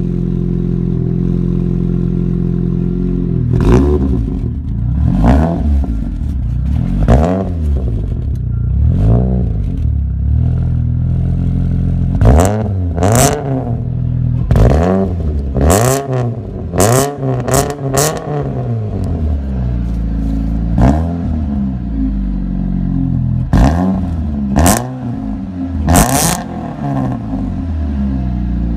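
Chevrolet Cobalt SS's supercharged 2.0-litre four-cylinder idling just after a cold start, its throttle blipped again and again: well over a dozen quick revs up and straight back down, closest together in the middle.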